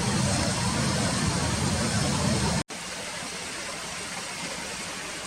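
Steady outdoor background noise, a rushing hiss with a low rumble. It breaks off abruptly a little past halfway and carries on quieter, with almost no rumble.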